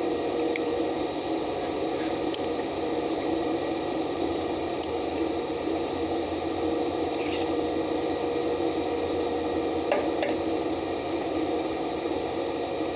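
Stick-welding arc (shielded metal arc welding) burning steadily with an even crackling hiss, broken by a few sharp pops.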